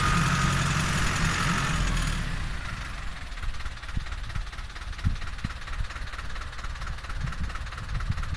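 SAME Explorer 95 tractor's diesel engine running, loud with a steady high whine for about the first two seconds, then dropping back to a quieter, uneven idle.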